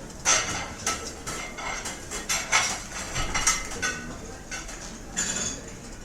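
Restaurant ambience: cutlery and dishes clinking and clattering a dozen or so times, each clink ringing briefly, over a steady low room murmur.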